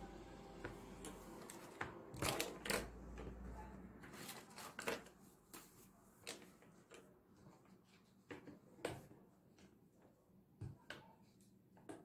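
Irregular light clicks, taps and knocks of small objects being handled, louder in a cluster about two to three seconds in, over a low hum that stops about four seconds in.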